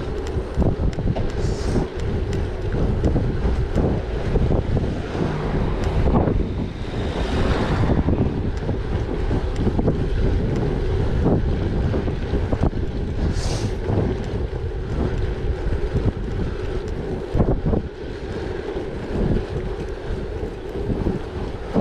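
Heavy wind buffeting the microphone of a gravel bike ride, with a steady rumble and constant small ticks and rattles from the gravel bike rolling over a rough surface. A couple of brief hissing swells stand out near the start and about two-thirds through.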